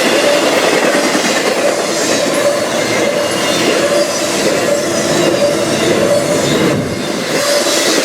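Train rolling past on the rails: a steady, loud noise of wheels running over track, with faint high wheel squeal through it.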